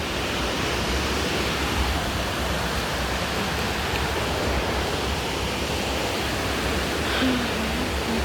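Waterfall: steady rushing of falling water, an even unbroken noise.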